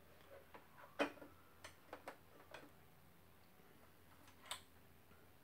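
Light, scattered clicks and taps of small hard objects being handled, such as a spool of thread and sewing-machine parts. The loudest click comes about a second in, a quick cluster follows, and one more comes near the end.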